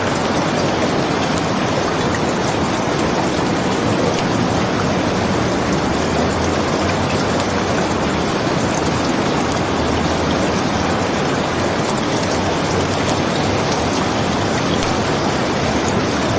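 Steady rain, a dense even hiss without pauses, with faint crackles from a wood fire in a fireplace mixed in.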